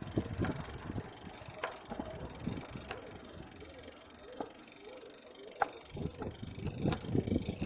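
Riding noise from a road bike on a city ride: a few short sharp clicks and rattles from the bike, with low gusts of wind buffeting the microphone, heavier in the last second or two.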